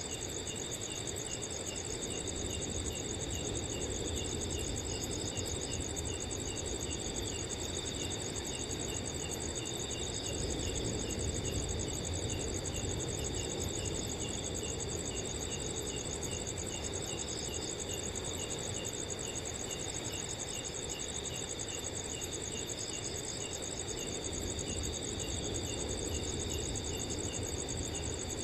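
Several crickets calling at once: a continuous high trill, with another cricket chirping steadily about twice a second. Underneath is a soft, low rush of wind.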